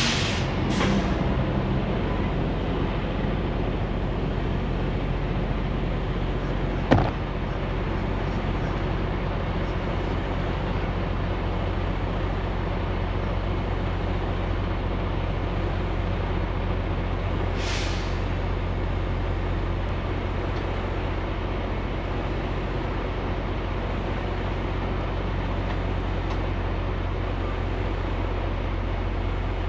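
Tractor-trailer running steadily, with a constant low engine drone and road noise. There is a sharp click about seven seconds in and a brief hiss about eighteen seconds in.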